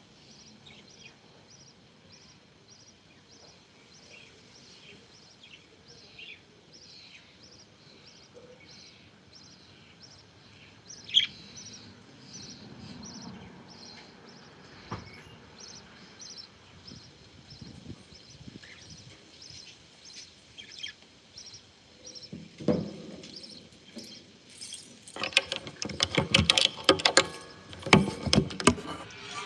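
Pet parakeets chirping, with a steady run of short, high chirps. A sharp click comes about eleven seconds in, and a loud burst of clicking and rattling fills the last few seconds.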